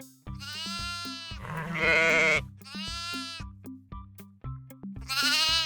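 Sheep bleating four times, long quavering calls with the second the loudest, over background music with a steady beat.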